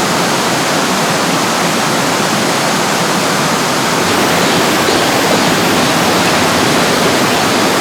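Mountain valley stream rushing over rocks: a loud, steady rush of water.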